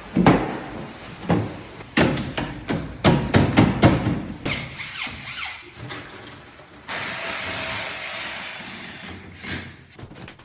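Assembly of plastic cabinet panels: a series of sharp knocks and clatters as the panels are handled and fitted. Then a power tool, such as a drill, runs steadily for about two seconds after the middle.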